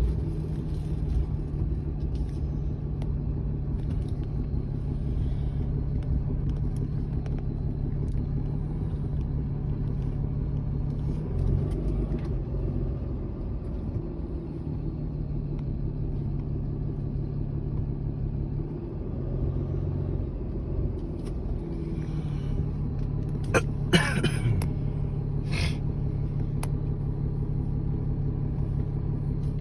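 Steady low rumble of a motor vehicle running, with a constant low hum. Near the end, two short sharp knocks stand out above it.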